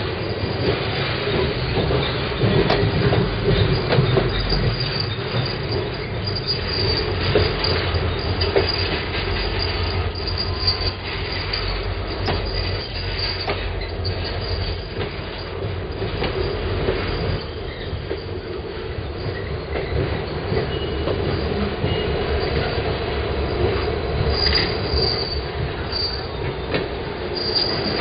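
Freight train's tank cars and boxcars rolling past close by: a steady rumble of steel wheels on rail, scattered clicks as the wheels cross rail joints, and a faint high wheel squeal near the end.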